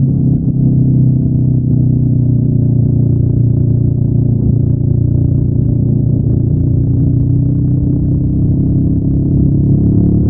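Honda NX500's 471 cc parallel-twin engine, stock exhaust, running at steady revs under way.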